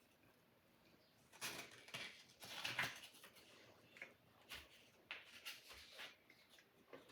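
Faint, irregular scraping strokes of a sword blade being sharpened, a handful of them spread out about a second apart.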